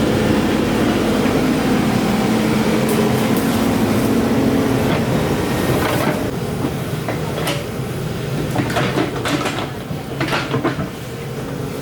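Excavator's diesel engine running steadily, with a string of metallic clanks and knocks in the second half.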